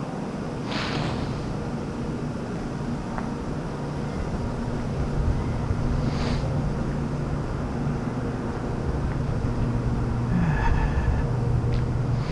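A motor vehicle's engine hums steadily, with two short hisses, one about a second in and one about six seconds in, and a brief pitched squeal near the end.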